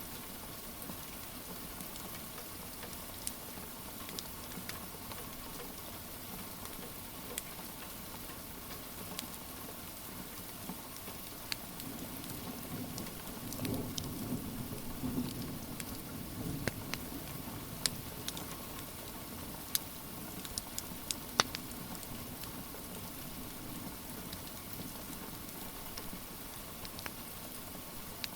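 Steady rain, with scattered sharp pops of a crackling wood fire. A low rumble swells for a few seconds about halfway through.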